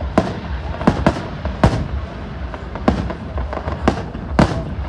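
Fireworks display going off: about six sharp bangs at irregular intervals over a continuous rumble and crackle.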